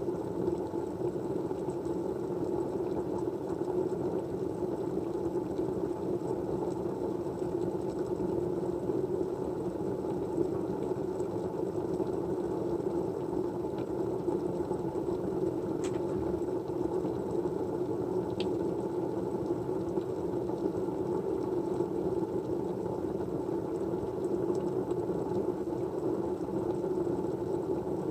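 Steady background noise: an even, low rushing sound that holds unchanged throughout, with two faint ticks about halfway through.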